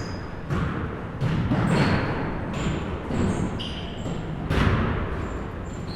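Basketballs bouncing on a gym court, several irregular bounces, with short high sneaker squeaks between them.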